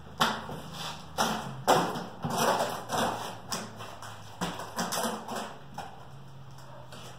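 A string of irregular knocks and thumps, as of hard objects being handled and set down, loudest in the first few seconds and thinning out near the end.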